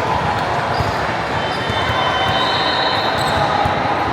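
Busy gym during volleyball play: volleyballs bouncing and being struck on a hard court floor amid a steady din from the hall, with a few held high squeaks.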